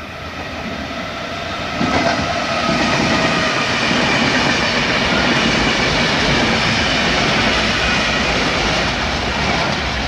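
Double-deck electric commuter train passing close: steady rolling noise of wheels on rail with some clickety-clack, and a high whine in the first few seconds. It grows louder about two seconds in and eases off near the end.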